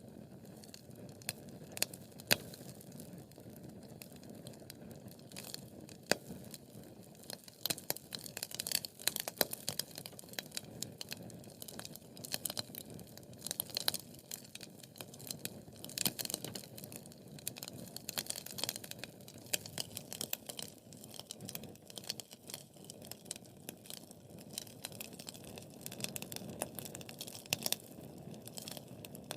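Wood fire in a fireplace crackling, with many sharp irregular pops and snaps over the low, steady noise of the flames.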